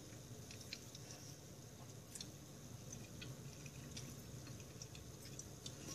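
Faint chewing of a mouthful of soft stir-fried pumpkin, with a few scattered faint clicks.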